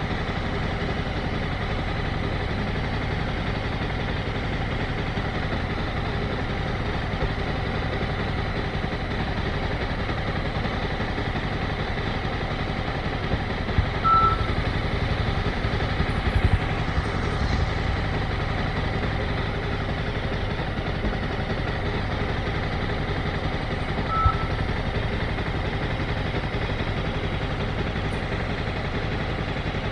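Motorcycle engine running steadily, with a few short low thumps about halfway through. Two short electronic beeps sound, about ten seconds apart.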